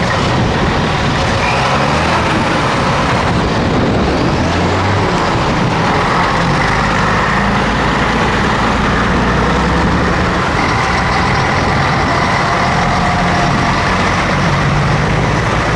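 Vintage Scania truck's diesel engine running under way, a steady drone whose pitch shifts a few times.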